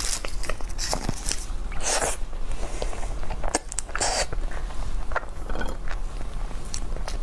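Close-miked chewing and mouth sounds of someone eating a soft dessert, with scattered short clicks and rustles.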